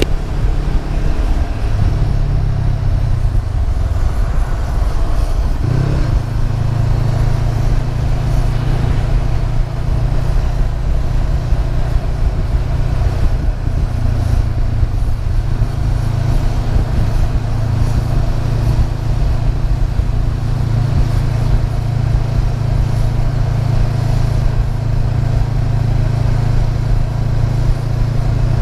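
Honda CB500F parallel-twin engine running under way at a steady note, with low wind rumble. The engine note changes briefly about six seconds in, then holds steady again.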